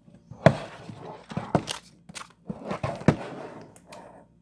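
Cardboard kit box being handled close to the microphone: a run of rustles and sharp knocks, the loudest about half a second in and again about three seconds in.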